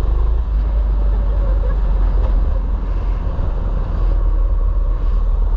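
Mini bike engine running steadily while riding, under a heavy, even low rumble.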